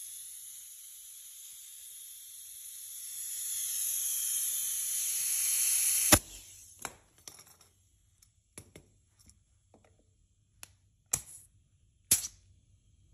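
Compressed air hissing through an air chuck into a motorcycle tire being pumped up to 100 PSI. The hiss grows louder, then cuts off with a sharp click about six seconds in, followed by a few scattered clicks and knocks.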